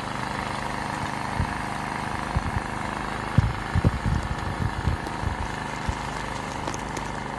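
A steady motor hum, like an engine running, with irregular soft low thumps over it from a little way in.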